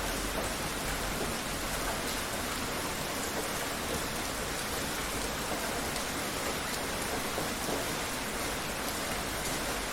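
Steady heavy rain falling on surfaces, an even hiss with scattered drops.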